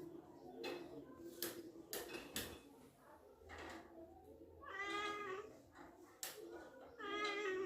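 Domestic cat giving two drawn-out meows, one about five seconds in and one near the end, with a few sharp clicks in between. The meows are the cat's displeasure at its owner.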